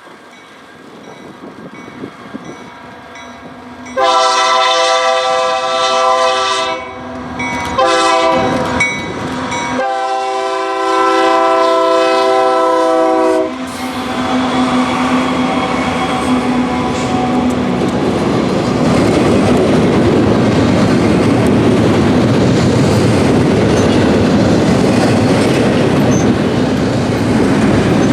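Diesel freight locomotive approaching and sounding its multi-note air horn in three blasts, long, short, long. The engine then passes, followed by the steady rumble and clatter of freight cars rolling by.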